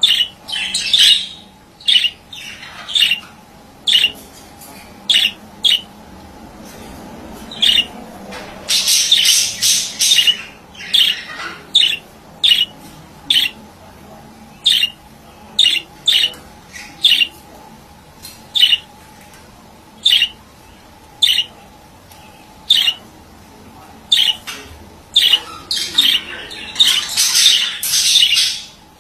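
Male budgerigar calling: a run of short, sharp chirps, one or two a second, broken by two longer bursts of dense chatter, about nine seconds in and again near the end.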